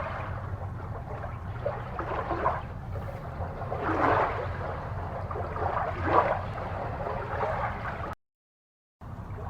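Aquarium water bubbling and gurgling in irregular bursts over a steady low hum. The sound cuts out to dead silence for about a second near the end, then resumes.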